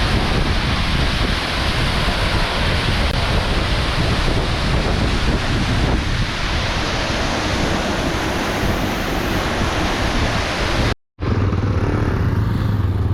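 Steady rushing of falling water from a waterfall. After a brief cut about eleven seconds in, a motorcycle engine runs with a low hum.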